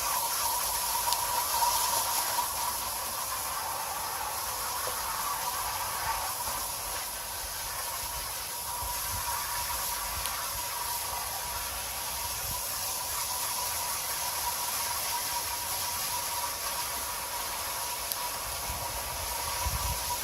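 Steady hiss of water spraying from a garden hose, rinsing an air-conditioner condenser coil.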